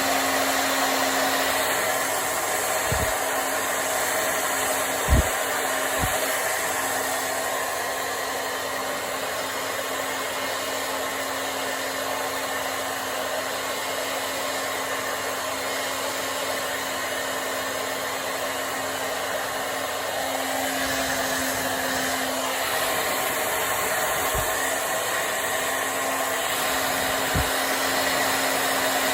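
Hand-held hair dryer blowing steadily while drying hair, its motor hum fading for a while in the middle and returning near the end, with a few soft low thuds.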